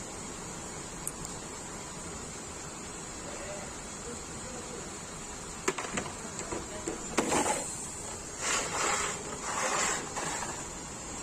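Hand tools working on a vehicle axle: a few sharp metal clicks about halfway through, then three short rasping, scraping noises, over a steady high hiss.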